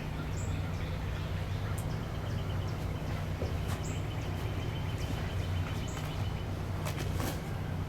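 Wetland ambience with a steady low rumble underneath. Over it, birds call: short high chirps about every two seconds, rapid ticking trains, and a few sharp clicks.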